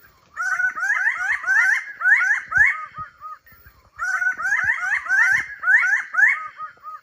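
Birds of paradise calling loudly in rapid series of short upslurred notes, about three a second, in two bouts with a pause near the middle.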